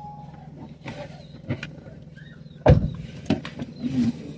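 A vehicle's engine idling with a steady low hum, over which come several knocks and thumps. The loudest knock falls a little past halfway.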